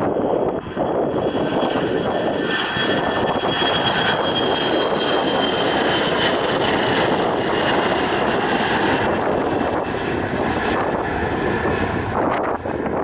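Airliner's engines passing close by: a loud rush of engine noise with a high whine that falls slightly in pitch as the plane goes past, loudest in the middle.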